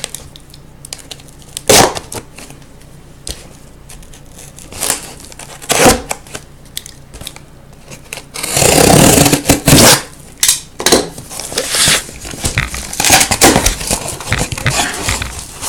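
A cardboard case of trading-card boxes being opened by hand: a few knocks, then about eight and a half seconds in a loud tearing of the packaging for a couple of seconds, followed by crinkling and scraping as the contents are handled.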